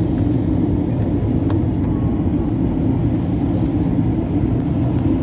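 Passenger jet's engine and airflow noise heard inside the cabin: a steady, even rumble.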